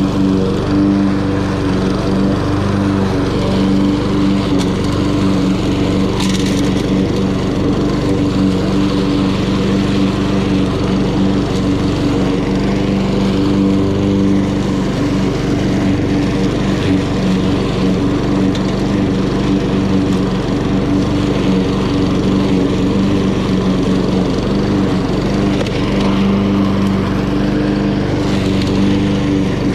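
Honda HRN216 walk-behind lawn mower's GCV170 single-cylinder four-stroke engine running steadily at constant speed while mowing grass.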